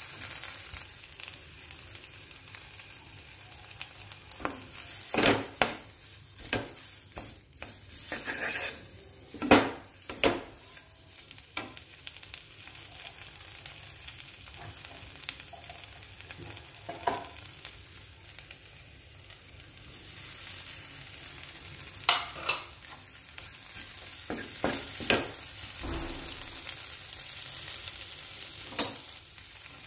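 Mashed boiled-potato stuffing frying in a nonstick pan: a steady sizzle, louder about two-thirds in, with repeated scrapes and sharp taps of a spatula against the pan as the mixture is stirred and pressed.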